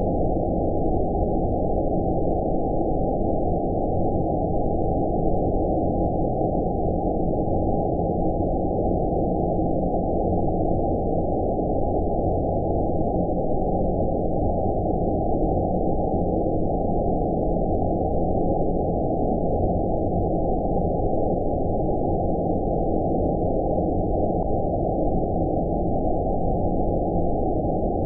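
Steady, muffled rushing noise with no high hiss at all, even and unchanging throughout: a filtered white-noise 'outer space' sleep sound.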